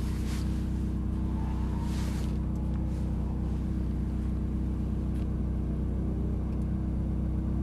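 Ferrari 458 Italia's V8 engine idling steadily with the car standing still.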